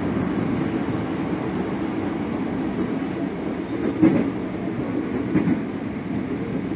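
Running noise inside a Tokyo Metro 05 series electric train car: a steady rumble of the wheels on the rails, with two louder knocks about four and five and a half seconds in.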